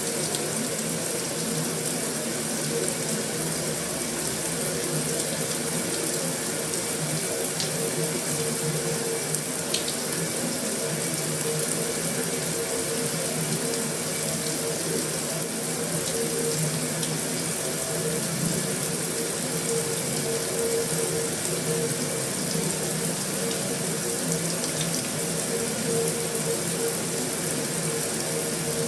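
Heavy rain falling on a metal roof, a steady, even hiss with no letup.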